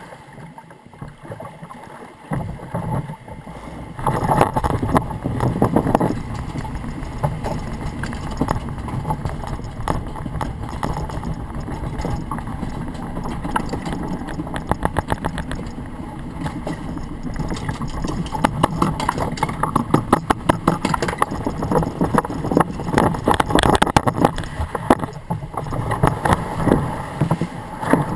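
Log flume boat travelling through its water trough: water sloshing and gurgling, with quick, dense clattering from about four seconds in.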